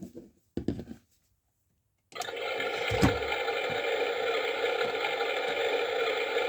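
A few handling knocks, then a toy washing machine switches on about two seconds in and runs steadily, a small motor whirring with water churning in the drum. There is one knock shortly after it starts.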